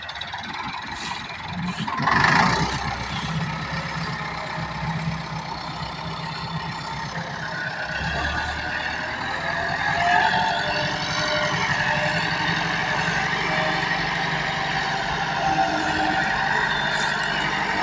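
A heavy tractor engine running under load. There is a loud surge about two seconds in, and from about eight seconds on a wavering high whine rides over the engine note.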